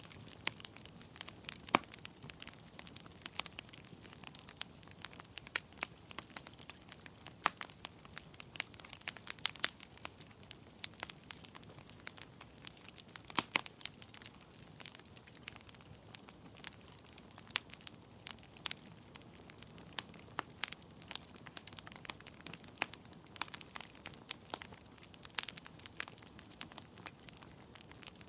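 Wood logs burning in a fireplace, crackling with irregular sharp pops and snaps over a soft steady rush of flame.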